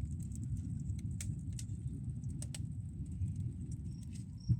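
A steady low rumbling noise, like wind buffeting the microphone, with scattered sharp clicks and one louder thump near the end.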